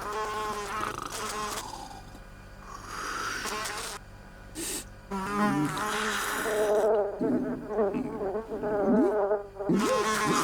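Cartoon housefly buzzing in bouts, its pitch swooping up and down as it flies about.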